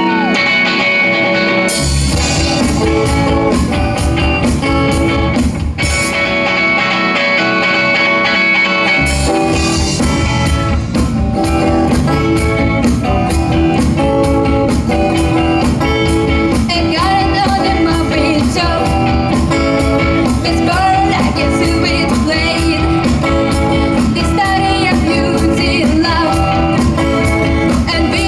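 Rock band playing live: held guitar chords, with the drums coming in about two seconds in, dropping out for a few seconds, then returning with the full band. A voice sings over the band in the second half.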